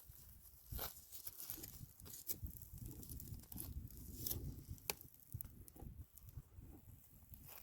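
A donkey walking over dry ground: irregular hoof taps with crackling and rustling of dry vegetation underfoot.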